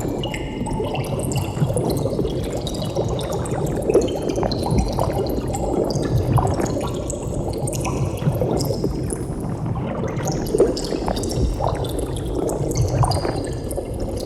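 Underwater bubbling: steady low gurgling water with many quick, high-pitched bubble blips popping up throughout, some sliding in pitch.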